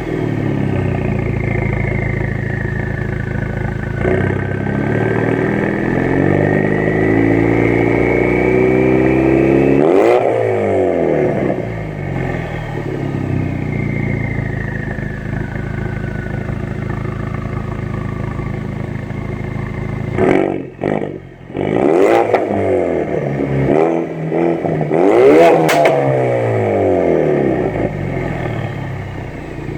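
Turbocharged 2.3-litre four-cylinder of a 2016 Ford Focus RS, heard through a Scorpion aftermarket exhaust, revving up and falling back several times. The pitch climbs to a peak about ten seconds in and again about twenty-five seconds in, with a brief drop-out and a few sharp cracks just past twenty seconds.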